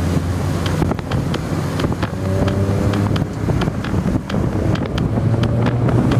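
Engine and exhaust of a modified compact hatchback driving past, with wind buffeting the microphone.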